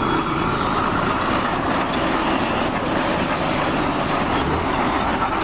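Truck engine running steadily, with the rumble and rattle of the moving truck.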